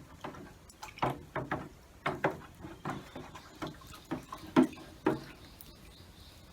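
A series of irregular sharp knocks and clacks, about a dozen over four seconds, the loudest about four and a half seconds in.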